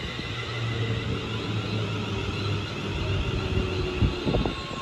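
London Northwestern Railway electric multiple unit moving slowly past, a steady low hum and wheel rumble, with a few sharp clanks about four seconds in.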